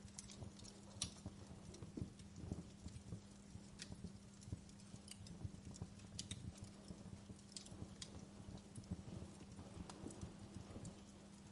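Wood fire crackling in a fireplace: faint, irregular snaps and pops scattered through, over a steady low hum.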